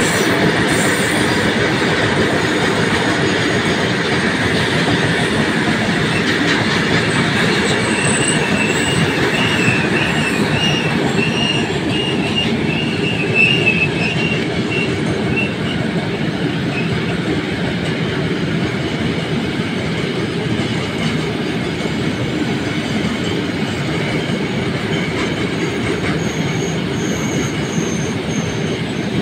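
Open freight wagons of a goods train rolling past, with a steady loud noise of wheels on rail. A high wheel squeal rises about eight seconds in and lasts several seconds.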